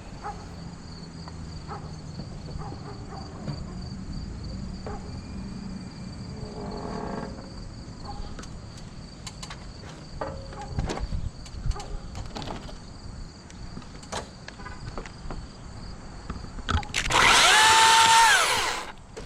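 Scattered small clicks and knocks, then near the end a loud power tool motor runs up, holds for about two seconds and winds down.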